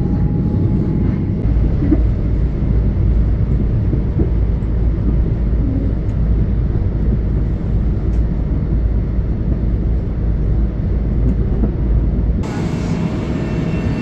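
Long Island Rail Road train running past, a loud steady rumble. Near the end the sound cuts abruptly to a thinner train sound with a high steady whine.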